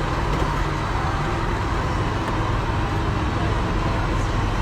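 Steady cabin noise inside an airliner: engine and air-conditioning noise with a low hum.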